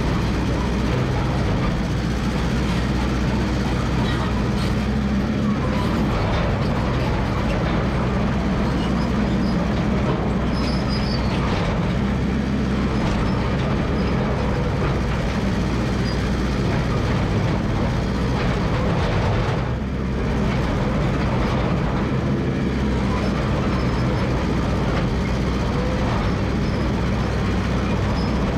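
Massey Ferguson MF 300 crawler dozer's engine running steadily under work, with clatter from its steel tracks as it moves. The engine dips briefly about two-thirds of the way through.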